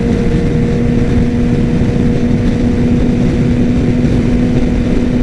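Yamaha R6's inline-four engine running at a steady speed on the move, its tone held at one pitch, over a dense low rumble.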